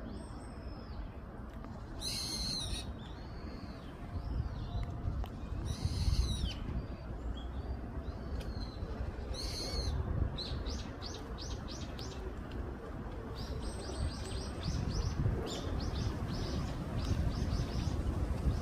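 Brown-eared bulbuls calling: three loud, harsh, screechy calls a few seconds apart, thinner whistled notes between them, and later runs of quick short notes. A steady low rumble lies underneath.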